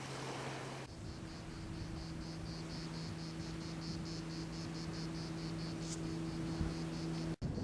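Insect chirping in a steady rhythm, about four or five high chirps a second, over a faint low steady hum; it begins about a second in.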